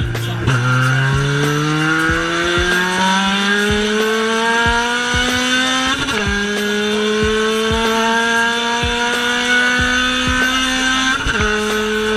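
K24A2 2.4-litre four-cylinder in a swapped Acura Integra, heard from inside the cabin at full throttle. The revs jump about half a second in and climb steadily. About six seconds in the pitch drops sharply at an upshift, then the engine pulls up through the revs again, with another shift near the end.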